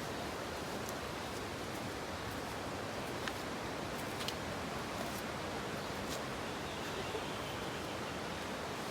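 Steady, even rushing noise of the open outdoors, with a few faint ticks.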